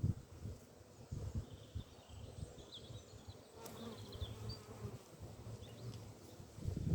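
Honeybees buzzing faintly around a hive entrance.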